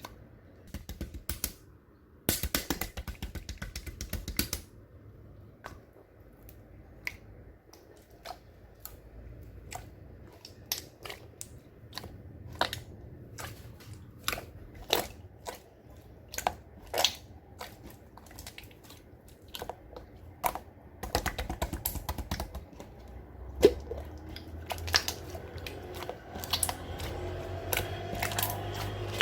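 Clear slime being squeezed and poked by hand, giving scattered sharp, wet clicks and pops. Quick runs of crackling come about two seconds in and again about twenty-one seconds in.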